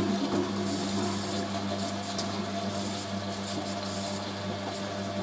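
Hoover A3060 washing machine filling with water at the start of its first rinse: a steady low hum from the water inlet valve, with water hissing into the drum.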